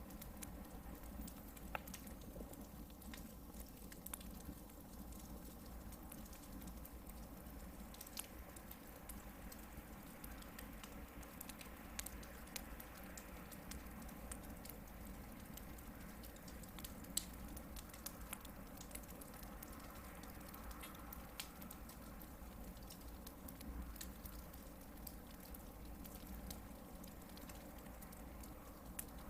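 Hardwood campfire burning, with scattered small crackles and pops over a soft steady hiss, and one sharper pop a little past the middle.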